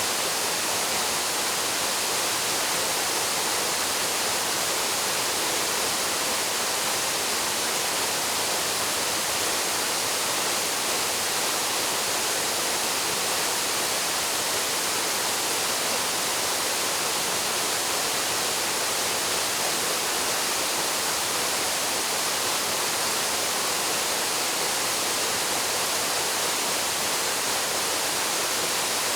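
Waterfall plunging into its pool, a steady, even rush of falling water with no breaks or changes.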